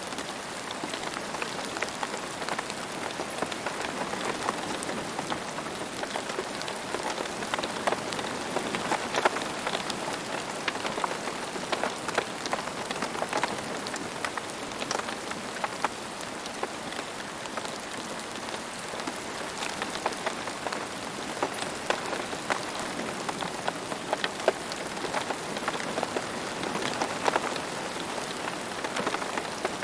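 Steady rain falling on a surface, an even hiss dotted with many sharp individual drop ticks.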